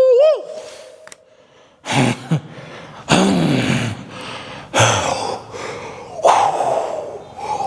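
A man breathing hard and out of breath after heavy training: a series of about four loud, gasping exhales, some with a groan in the voice.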